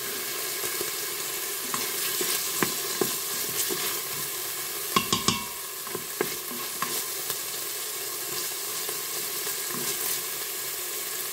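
Diced cooked ham and chopped onion sizzling steadily in olive oil in an electric pressure cooker's stainless steel pot on its sauté setting, stirred with a wooden spoon that scrapes and clicks against the pot, with a few louder knocks about five seconds in.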